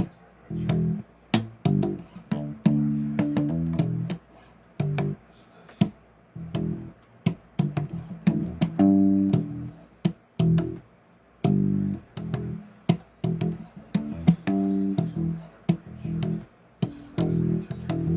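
Bass guitar played solo: short riffs of plucked notes with sharp string attacks, broken by brief pauses.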